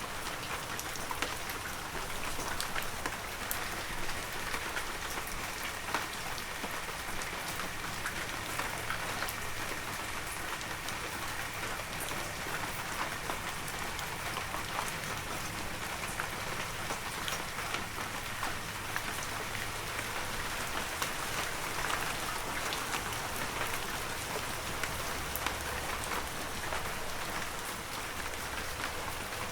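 Heavy rain falling steadily, an even hiss dense with the ticks of individual drops hitting surfaces.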